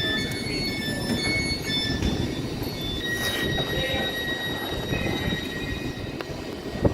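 Train moving on the rails, a low rumble under high-pitched squealing from the wheels, on and off at first and then held steady from about halfway through. A short sharp knock near the end.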